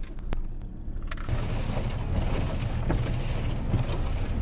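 A click, then about a second in a small car's engine starts from cold and settles into a steady idle, heard from inside the cabin.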